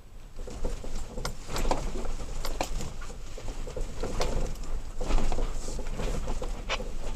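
Toyota Tacoma's cab rattling, knocking and creaking as it drives over a rough off-road trail, over a low rumble of engine and tyres. The clatter picks up just after the start.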